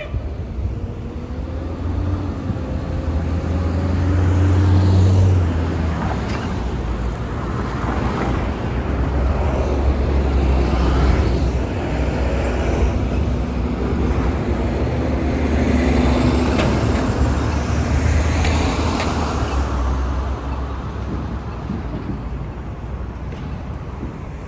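Road traffic passing close by, with heavy engines running low. The sound swells about five seconds in, stays loud through the middle and eases off near the end.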